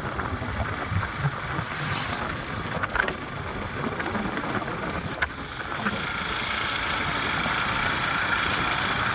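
Motorcycle engine running under way, with road and wind noise and a few brief knocks; from about six seconds in a steadier, slightly louder engine tone comes in.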